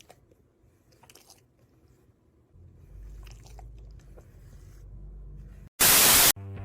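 Faint scattered crunching clicks, then a low rumble from about two and a half seconds in, cut off near the end by a loud half-second burst of static-like noise.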